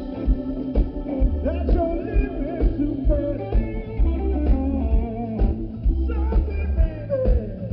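Live blues band playing: electric guitar with bending lead notes over bass and a steady drum beat.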